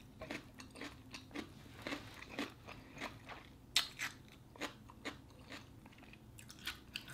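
A mouthful of raw English cucumber being chewed, with irregular crunches about twice a second.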